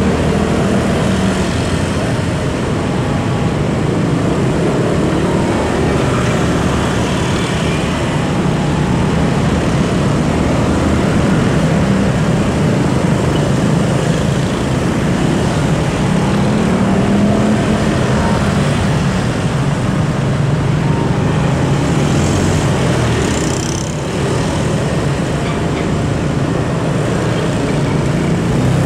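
Freight train of tank wagons rolling slowly over curved track and switches: a steady rumble of wheels on rails.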